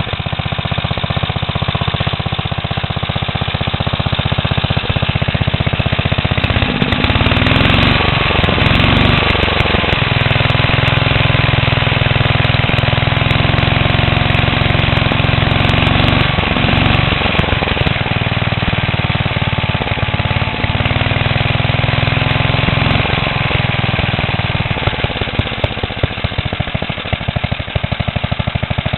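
An engine running continuously, its pitch rising and falling several times as its speed changes.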